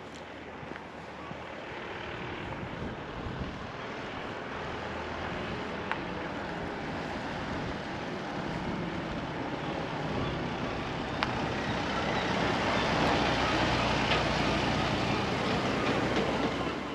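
An engine-driven vehicle growing steadily louder as it comes closer, loudest in the last few seconds, then falling away abruptly at the end.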